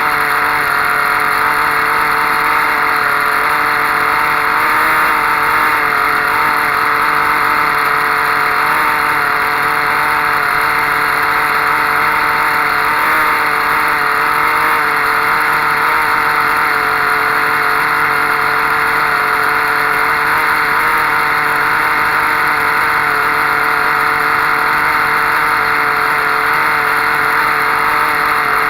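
Soviet OTM-08 "Kolibri" 0.78 cc two-stroke model diesel engine running steadily, a continuous buzz that holds one pitch without revving up or down.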